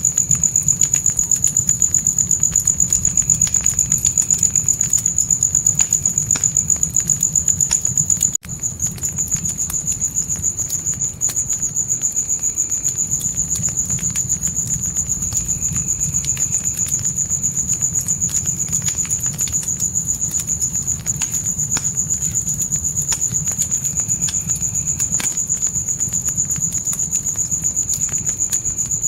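Crickets chirping in a steady, rapid high-pitched pulse over the crackle and low rumble of a wood fire. The whole bed cuts out for an instant about eight seconds in, then carries on.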